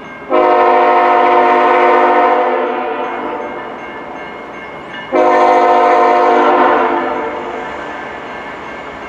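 A CN diesel locomotive's multi-note air horn blowing two long blasts about five seconds apart, each starting abruptly and trailing off. It is sounding for a road crossing as the train approaches.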